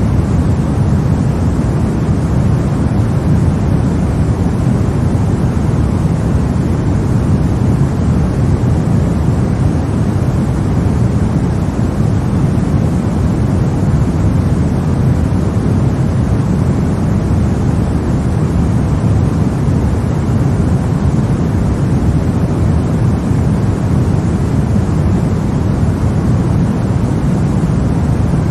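Steady, unchanging sleep noise for babies, a constant hiss weighted toward the low end, more rumble than hiss.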